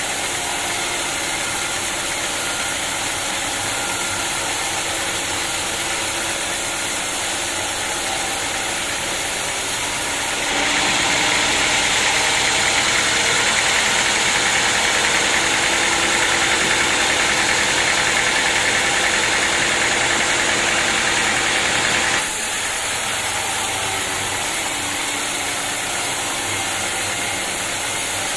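Sawmill machinery running steadily. About ten seconds in it turns louder and hissier for some twelve seconds, then drops back abruptly.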